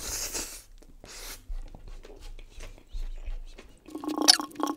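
A person chewing a big mouthful of rice and fish curry with wet, clicking mouth sounds. There are two short hissy bursts in the first second and a half, and a louder stretch near the end.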